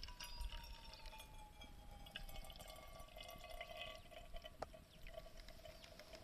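Wood fire crackling softly with scattered sharp pops, under thin whistling tones, one of them sliding slowly down in pitch and then holding steady.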